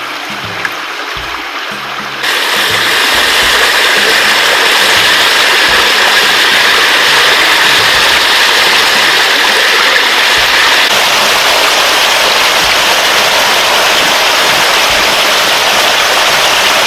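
Steady rush of flowing water that gets louder about two seconds in and stops abruptly at the end, with background music underneath.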